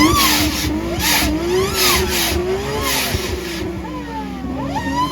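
Turbocharged and supercharged Toyota Soarer engine revved hard and held high, its pitch wavering up and down with the throttle and whistles following the revs. Short hissing bursts come about once a second.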